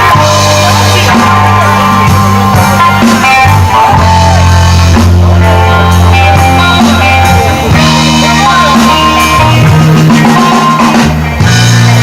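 Live rock band playing, with electric guitar, bass and drum kit in a loud, dense mix; the bass moves between held notes every second or two.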